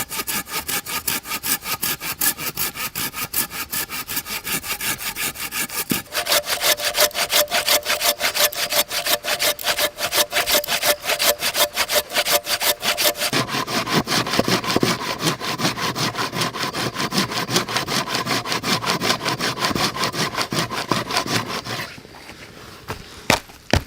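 Hand saw cutting through wood in quick, even back-and-forth strokes. The sawing stops about two seconds before the end, leaving a few knocks.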